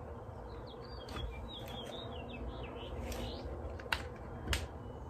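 Small bird chirping faintly in the background, a quick run of twittering high notes about a second in, followed by two light, sharp clicks about four seconds in.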